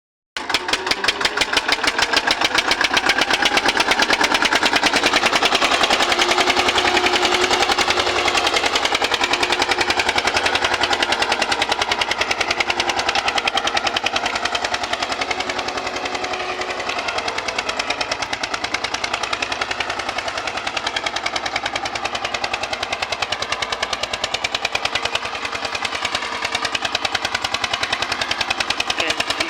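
Eicher tractor's diesel engine running with a rapid, even exhaust beat that goes on without a break.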